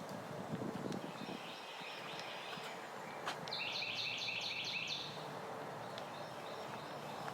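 A songbird singing a fast phrase of repeated high notes, about eight a second for roughly two seconds, sung twice: fainter about a second in, then louder about three seconds in.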